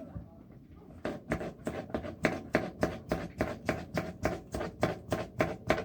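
A fast, even series of sharp knocks, about three a second, starting about a second in.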